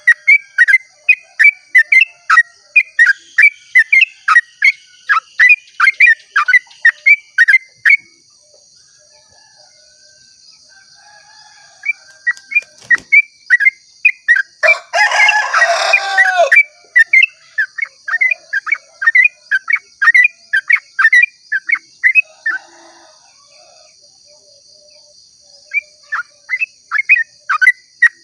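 Yellow-vented bulbul (trucukan) giving its rapid repeated 'ropel' song, about three sharp notes a second, breaking off for a few seconds before starting again. About halfway, a louder, harsher call cuts across for nearly two seconds, over a steady high-pitched hum.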